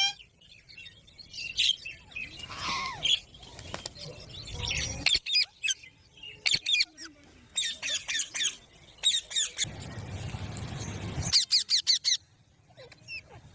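Parrot calling: short, sharp, high-pitched squawks in quick runs of several at a time, with pauses between the runs.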